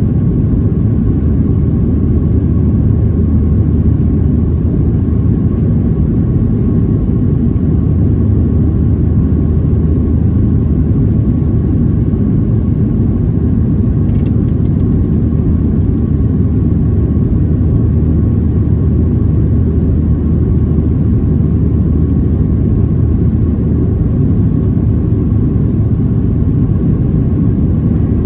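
Cabin noise of a Boeing 737-700 climbing after takeoff: its CFM56 jet engines and the airflow make a steady deep rumble, with a faint steady whine above it.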